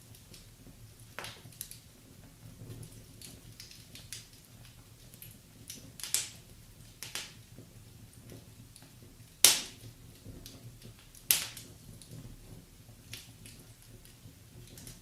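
Wood fire crackling in a fireplace: scattered sharp pops and snaps over a low steady rumble of the flames, with two loud pops a little past halfway, under two seconds apart.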